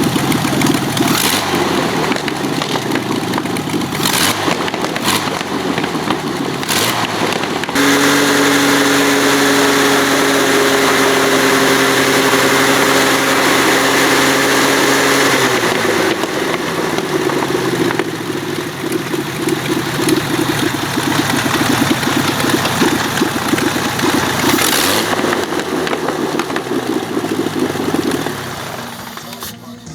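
Avia M 137 six-cylinder air-cooled aircraft engine running. It runs unevenly at low speed, then about eight seconds in it is opened up abruptly and holds a steady, higher note for about seven seconds. It then winds down over a couple of seconds to a lower, rougher run that fades away near the end.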